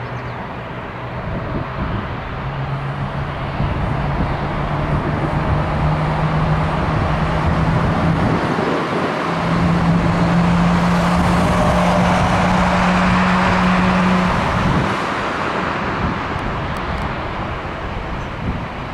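Jet airliner's engines at take-off power, a broad rushing noise with a low steady hum that rises slightly in pitch. It swells over several seconds, holds at its loudest, then drops away suddenly about fourteen seconds in.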